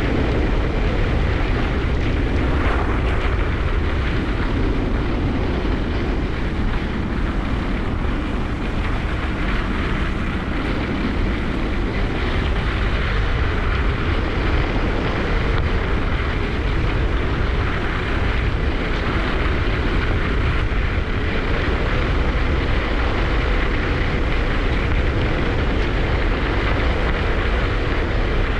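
Steady wind noise buffeting a GoPro's microphone during a downhill ski run, a loud rushing with a heavy low rumble.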